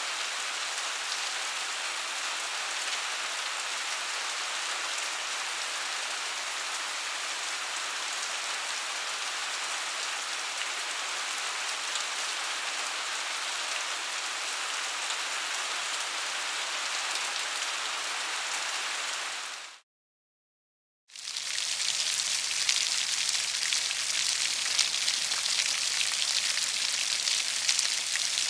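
Steady rain falling. About two-thirds of the way through it cuts out to silence for a second and a half, then resumes slightly louder and brighter, with individual drops more distinct.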